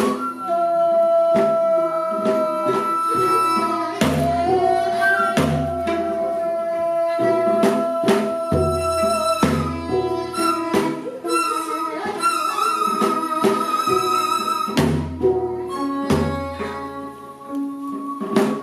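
Korean traditional instrumental music from daegeum, gayageum and ajaeng with buk drum: long held melodic notes over plucked zither strokes and low drum beats.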